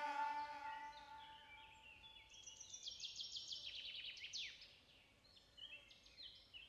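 Faint bowed-string music fading out, then a songbird singing: a quick run of high, short notes stepping down in pitch about two seconds in, and more short falling calls near the end.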